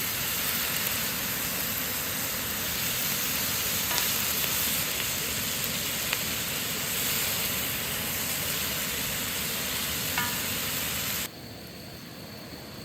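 Food sizzling as it fries in a pan: a steady hiss with a few light clicks. It cuts off abruptly near the end, leaving a quieter hiss.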